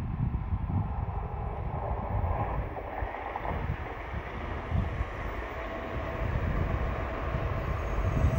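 Wind buffeting the microphone over the low rumble of an N700A Shinkansen train running at reduced speed on a viaduct because of heavy snow. A faint steady hum comes in about halfway through.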